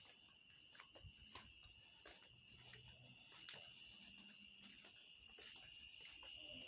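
Faint insects chirping at night: a steady high trill with a second, higher chirp pulsing about six times a second, typical of crickets. A few light clicks are scattered through it.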